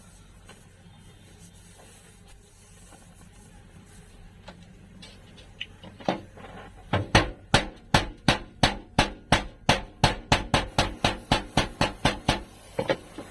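Hammer striking sheet metal, a few scattered knocks and then a fast, even run of about four blows a second that starts about seven seconds in and stops after five seconds or so, with a couple of further blows near the end.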